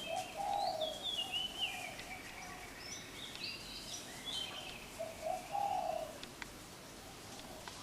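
Wild birds calling: a low call comes twice, near the start and again about five seconds in, while higher whistled notes step up and down in pitch through the first six seconds.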